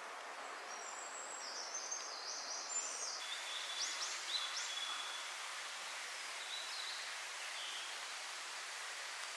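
Wild songbirds chirping in a forest: a run of short high-pitched calls and trills from about a second and a half in to about five seconds, then a few fainter calls, over a steady hiss of running spring water.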